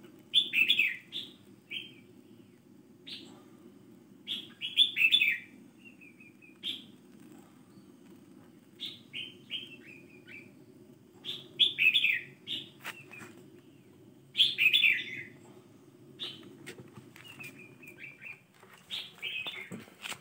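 Birds chirping in quick clusters of short high notes every one to three seconds, the loudest sound here. Beneath them runs the steady low rush of a butane gas torch melting a beeswax sheet, which stops about a second before the end.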